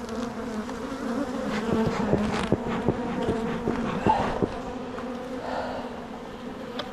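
Honeybees buzzing around an open hive as a steady hum, with scattered light clicks and knocks, most of them in the first half.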